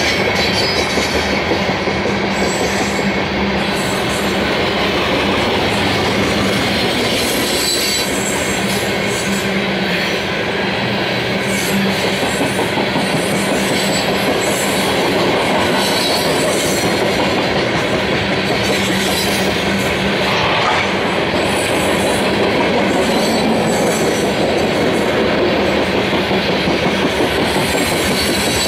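Loaded coal gondolas of a long freight train rolling steadily past at close range: a continuous, even rumble and rattle of steel wheels on the rails, with a thin high wheel squeal running through it.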